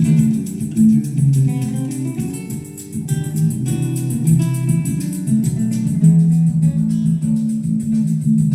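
Guitar-led recorded music played back over loudspeakers driven by a Yamaha A-30D stereo amplifier, with a strong bass line.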